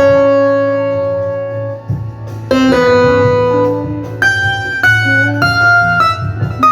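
Instrumental keyboard music on an Ensoniq TS-12: held melody notes over a low bass line. A new chord comes in about two and a half seconds in, and then the melody steps through several held notes.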